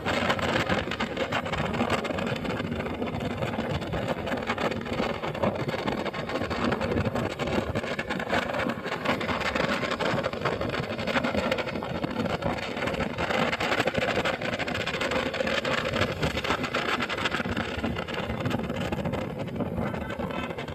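Motorcycle engine running steadily while riding, a constant engine drone under a broad rushing noise.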